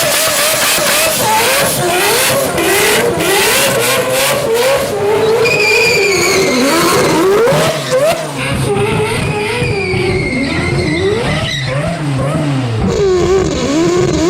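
Rotary-engined car being driven hard, its engine revs climbing and dropping over and over while the tyres squeal, most clearly about six and ten seconds in.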